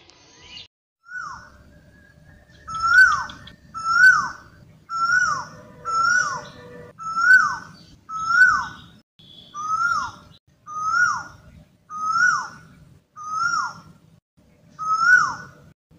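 A bird calling over and over, about a dozen short calls roughly a second apart. Each call is a quick note that rises and then drops in pitch.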